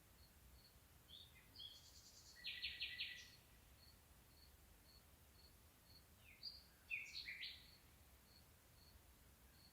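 Faint bird song: two short phrases of quick, varied notes, one about a second in and another about six seconds in. A regular short high pip repeats about twice a second throughout.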